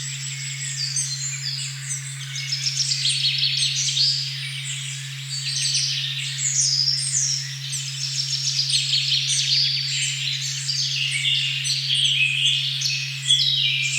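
A steady pure 136.1 Hz tone hums beneath a forest recording full of birdsong, with many birds chirping and trilling over one another.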